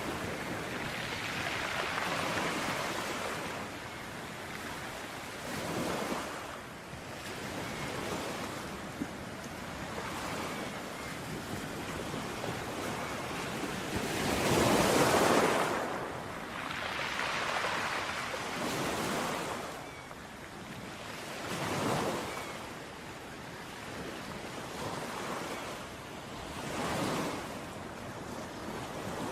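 Ocean waves breaking and washing up on a beach, one swell after another every few seconds, the loudest about halfway through, with a light rush of wind.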